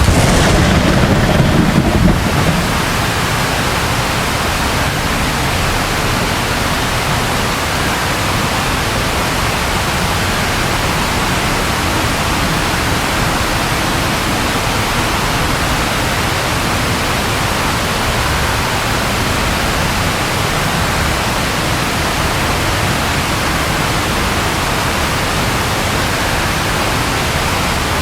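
Steady rain, with a short low rumble of thunder in the first couple of seconds.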